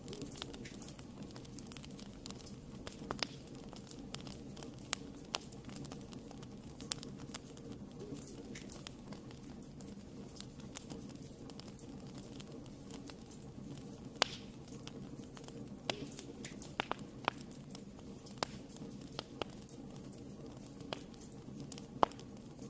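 Wood fire burning in a fireplace, crackling: a steady low hiss of flame with frequent irregular snaps and a few louder pops.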